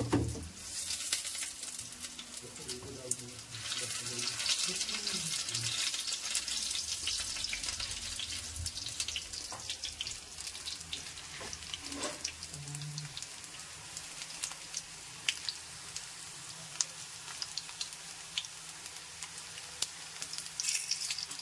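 Vegetable seekh kebabs shallow-frying in hot oil in a pan: a steady sizzle full of small crackles and pops, strongest from about four to nine seconds in.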